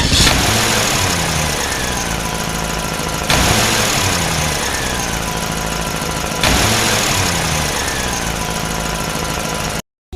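Tractor engine running with a heavy hiss and stepping pitch. The same roughly three-second stretch repeats three times, each starting with a sudden jump in loudness, like a looped engine recording.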